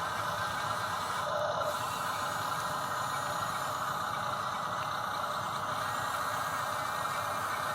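Steady whine of a radio-controlled model construction machine's small electric motors and plastic gearing, running without pause.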